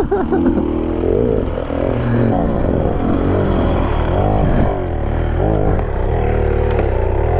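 Enduro dirt bike engine running under throttle, its pitch repeatedly rising and falling as the revs go up and down.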